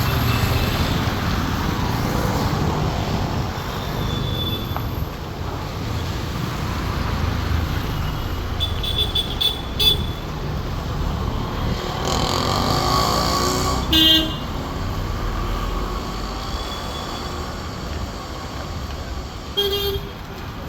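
Steady road traffic rumble with several short vehicle horn honks, the loudest about two-thirds of the way through.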